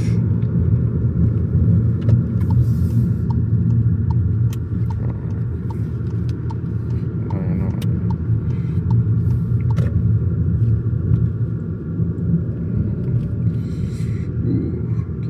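VW Golf GTI Mk7's 2.0-litre turbocharged four-cylinder engine and road noise, heard from inside the cabin as a steady low rumble. A regular light ticking runs for several seconds in the middle.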